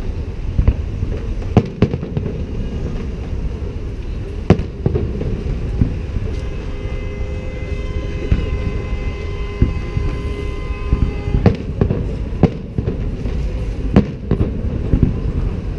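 Festive salute fireworks going off: a steady low rumble of bursts with sharp, irregular bangs over it. For a few seconds in the middle, several thin steady tones sound over the bangs.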